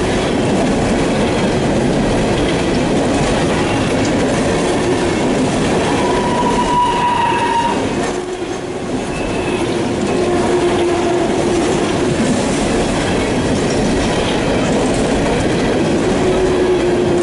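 Empty coal cars of a CSX freight train rolling past close by: a steady rumble and clatter of wheels over the rail. Thin squealing tones from the wheel flanges on the curve come and go, a higher one about six seconds in.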